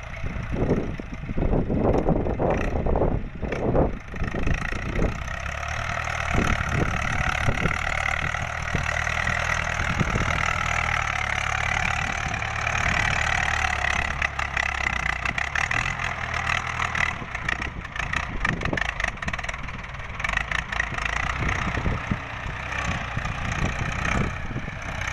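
Ford 6600 tractor's three-cylinder diesel engine running steadily, with scattered knocks and rattles in the first few seconds and again about two-thirds of the way through.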